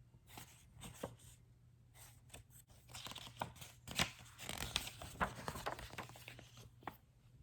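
Rustling, crinkling and clicking as a board book is handled and its pages turned, in irregular bursts that are busiest in the middle, over a faint steady hum.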